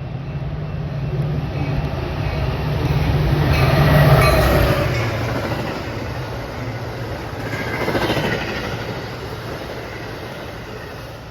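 Diesel-hauled train passing on the rails, with a steady low engine drone that fades after about four seconds and rail noise swelling twice as the cars roll by.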